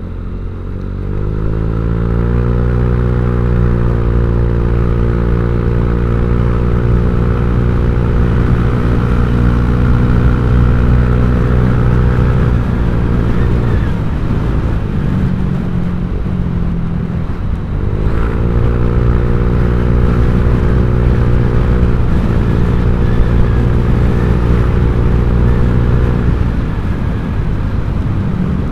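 Honda Vario 150 scooter's single-cylinder engine running through an aftermarket ZRC copy-CMS exhaust while riding: the revs climb and hold steady, drop off about halfway through, then climb and hold again before easing off near the end.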